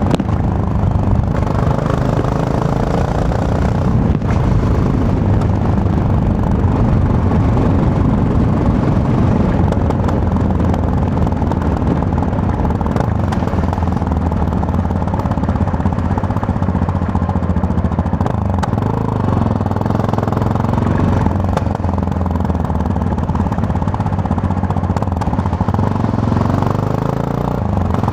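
Yamaha MT-03 motorcycle engine running steadily while riding, its pitch rising and falling briefly a few times with changes in revs.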